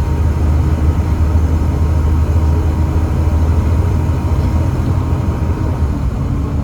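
Volvo D7C 7.3-litre diesel engine of a Volvo B7TL double-decker bus running with a steady low drone; about six seconds in, the drone eases slightly and shifts in pitch.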